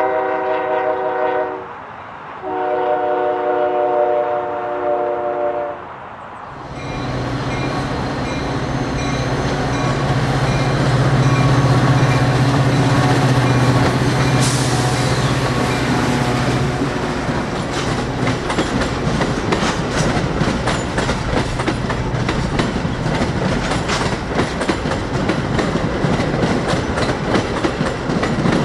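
An EMD F40-series diesel locomotive sounds two blasts of its multi-note chord horn, the second longer, then passes close by: a loud, steady low engine drone, followed by a rapid run of clicks as the train's wheels cross rail joints.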